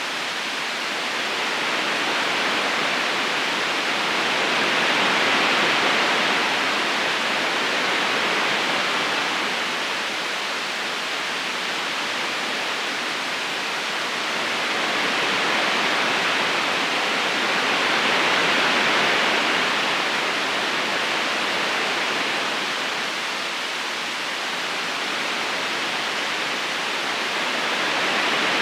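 River current flowing: an even rushing hiss of water that swells and eases slowly.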